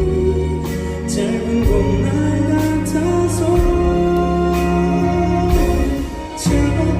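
Live band music: sustained chords over bass, with cymbal strokes every second or so and a short dip in volume about six seconds in.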